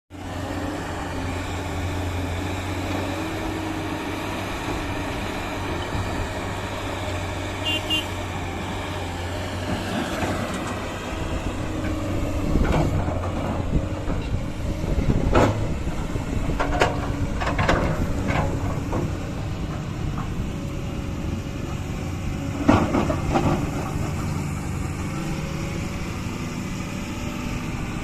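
Diesel engines of heavy digging machinery, an excavator and a backhoe loader, running with a steady low drone. Several sharp clanks and knocks come in the second half, the loudest near the end.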